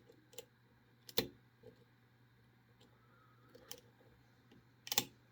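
Lock pick and tension wrench working the pins of a pin-tumbler challenge lock: a few scattered small clicks, with sharper ones about a second in and near the end, where the plug drops into a false set.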